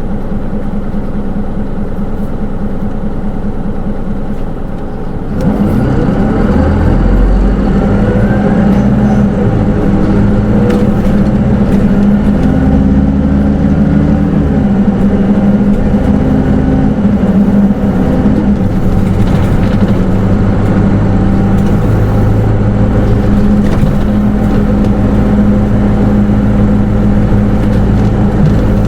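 Hino Rainbow II (SDG-KR290J1) city bus's four-cylinder diesel engine, heard from inside the cabin. It idles steadily, then about five seconds in it pulls away and accelerates with rising engine pitch through a couple of automatic gear changes, and settles into steady running.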